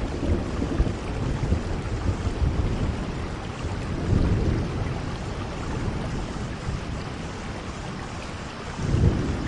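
Steady rainfall, with a low rumble swelling up about four seconds in and again near the end.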